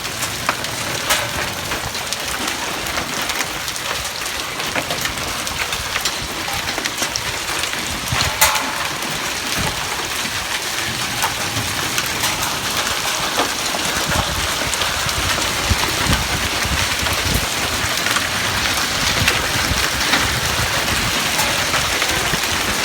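Heavy, damaging hail falling: a dense, steady patter of hailstones striking hard surfaces, with many sharper cracks from single stones. The loudest strike comes about eight and a half seconds in.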